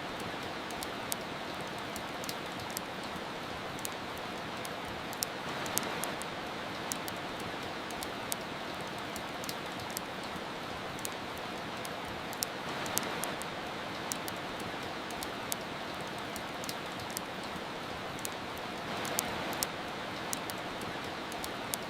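Steady rain hiss mixed with the crackle of a wood fire: sharp, irregular pops and snaps scattered over the rain. The rain swells a little about every six or seven seconds.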